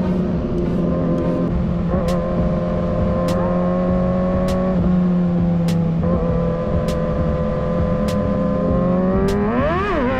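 Kawasaki Ninja sportbike's inline-four engine running at steady revs, its pitch shifting slightly a couple of times. Near the end comes a quick rise and fall in pitch, as from a short rev.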